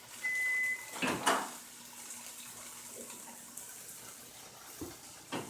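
Microwave oven beeping at the end of its cycle: one short, steady beep just after the start. It is followed by a couple of sharp clicks about a second in and knocks near the end.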